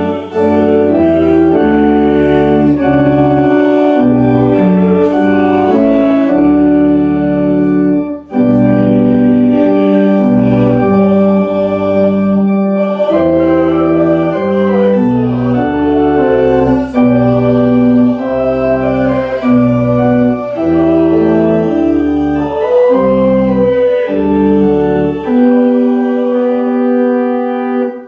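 Church organ playing slow sustained chords that change about once a second, with a short break about eight seconds in.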